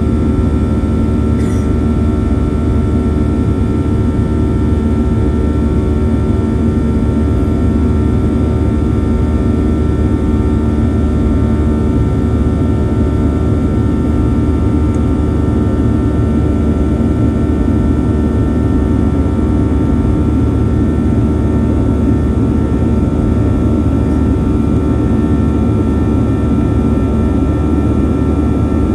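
Boeing 737-900's CFM56-7B turbofan engines and airflow heard from inside the passenger cabin: a steady, loud rumble with several constant fan tones running through it.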